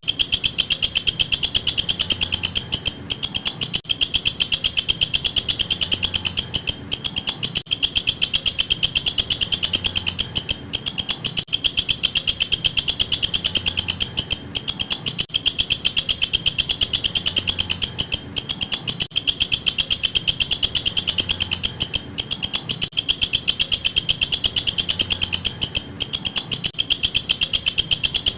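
Walang kecek katydid stridulating: a fast, continuous train of sharp, high-pitched ticks, broken by a short pause about every four seconds.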